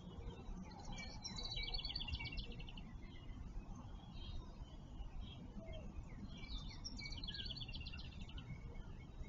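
A songbird singing the same short song twice, each ending in a rapid high trill, with scattered chirps from other birds, over a steady low background rumble.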